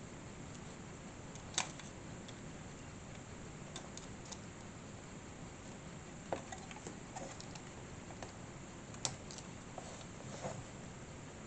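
Small clicks and taps of model kit parts being handled and pressed together, with a few sharper clicks spaced out over several seconds, over a faint steady hiss.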